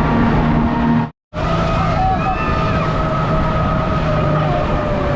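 Engine running steadily with a constant hum. The sound cuts out completely for a moment about a second in.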